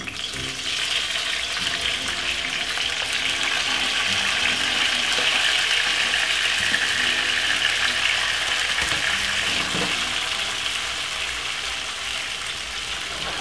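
Sliced carrot, peppers, onion and tomato sizzling in hot vegetable oil in a frying pan just after being tipped in. The sizzle builds in the first second, holds strong and steady, and eases a little toward the end.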